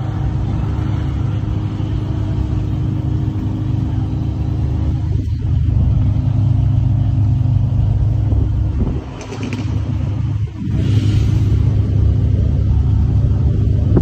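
A car engine idling: a steady low rumble that dips briefly twice around the middle.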